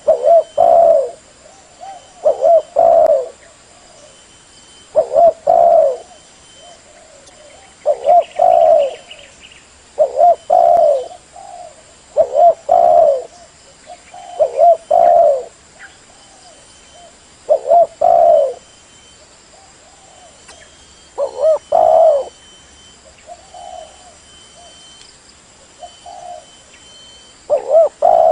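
Spotted dove cooing, the call of a decoy bird used to lure wild doves: loud phrases of a few low coos repeated about every two seconds, with fainter single coos between the later phrases.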